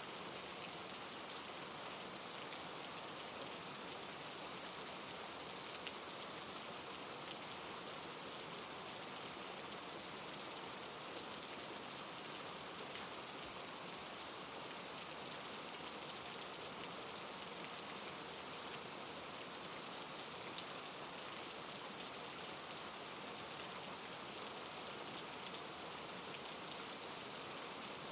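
Steady soft rain falling, an even hiss with small scattered drop ticks throughout.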